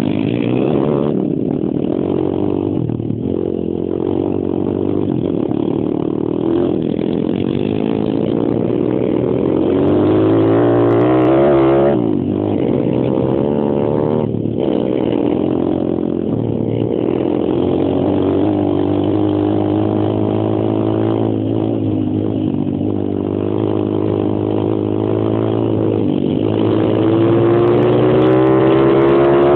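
Stomp Superstomp X140 pit bike's single-cylinder four-stroke engine running hard around a track, revving up and dropping back sharply several times.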